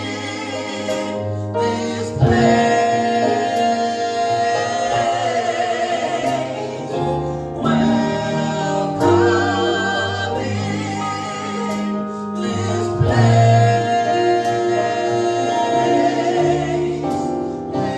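Gospel praise band with choir singing a slow worship song, voices held over sustained chords and bass.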